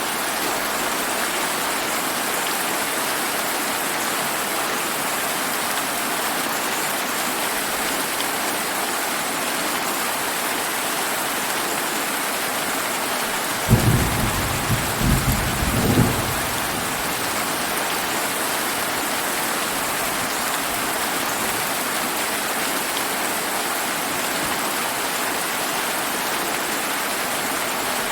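Steady summer rain falling, with a rumble of thunder about halfway through that lasts some two and a half seconds and swells in several peaks.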